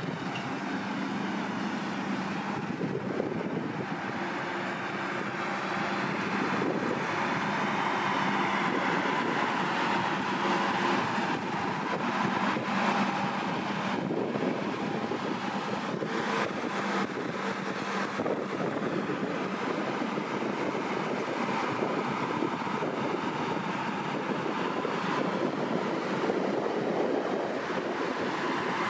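Lamborghini Revuelto's 6.5-litre V12 running steadily at low revs, with wind buffeting the microphone.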